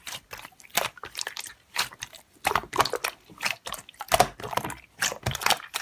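Slime being squeezed and pressed by hand, making irregular crackling clicks and small pops.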